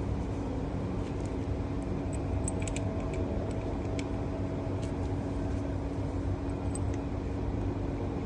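Diesel engine running steadily, with a few light metallic clicks about two to five seconds in.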